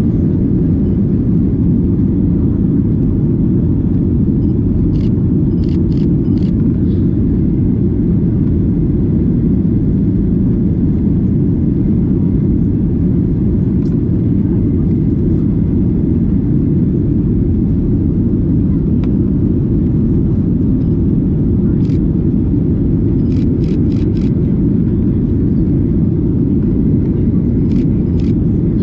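Steady cabin drone of a Boeing 737-900ER in flight, with its CFM56-7B engines and airflow making a deep, unchanging rumble. A few small clicks come in short clusters about five seconds in and again near the end.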